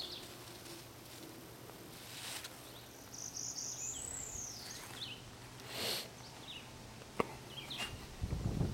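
Faint outdoor ambience with birds calling: a high call that rises and then falls about three to five seconds in, and a few short chirps scattered through. Low scuffing, like footsteps, starts near the end.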